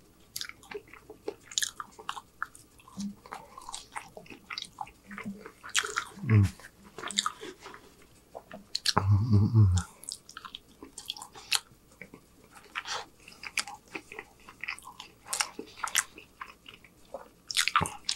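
Close-up chewing and biting of fried food: many short wet mouth clicks and crunches, with two low hums from the eater, a brief one about six seconds in and a longer one about nine seconds in.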